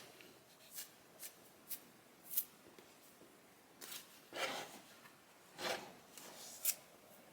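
Faint rustling and light knocks of wigs and their things being handled and sorted, in about eight short bursts a second or so apart.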